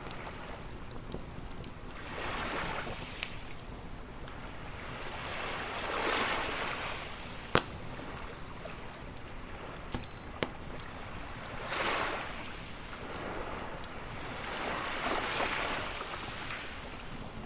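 Waves washing in on a beach in slow swells, about four in all, under a crackling wood fire with scattered small pops and one sharp, loud pop about seven and a half seconds in.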